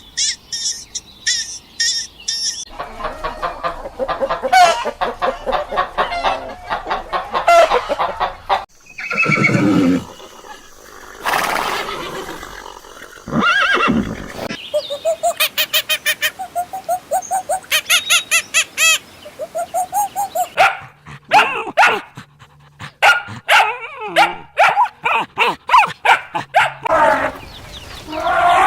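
A run of different animal calls and cries, one short clip after another, with abrupt changes between them.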